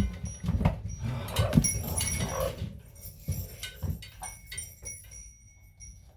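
Knocks and rustling from things being handled, about a dozen short knocks over the first four seconds, then quieter with faint steady high tones.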